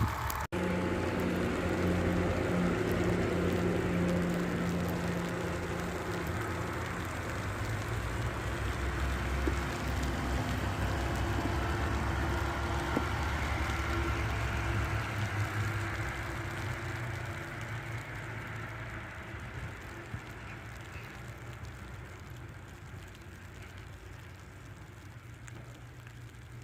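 Bus engine running as the bus moves off and passes, with a hiss of tyres on the slushy road. The engine fades away over the second half.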